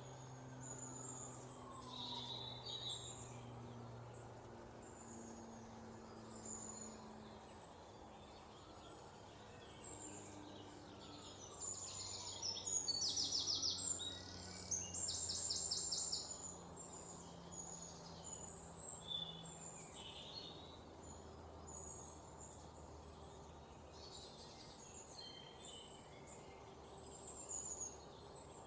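Several songbirds chirping and singing, with a loud run of rapid repeated trilled notes about halfway through. A faint low hum runs underneath.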